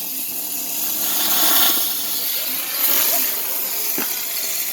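Consumer fireworks hissing and whooshing in swells, with a single sharp crack about four seconds in.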